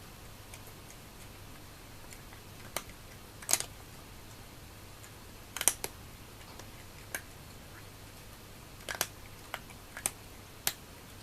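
Cats eating dry food from a bowl: about eight irregular sharp clicks, some in quick clusters, over a faint steady hum.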